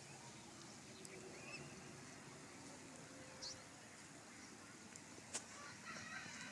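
Near-quiet ambience with a few faint bird chirps and one short click about five seconds in.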